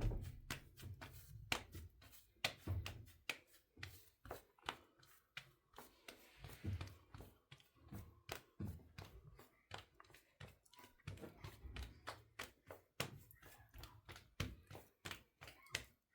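Irregular light knocks and taps, several a second at times, with a few heavier thuds among them, as of things being handled and set down.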